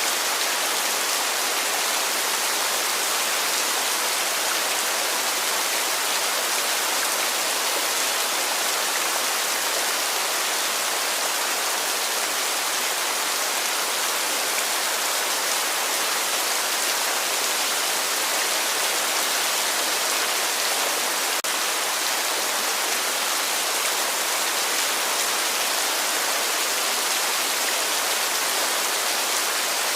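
Heavy rain falling steadily, an even dense hiss of many drops with no change in strength.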